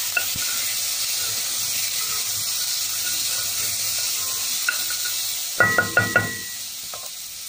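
Araucaria pine nuts sizzling in hot oil in an aluminium pot as a wooden spoon stirs them. A few sharp, ringing knocks come about six seconds in, and the sizzle grows a little quieter near the end.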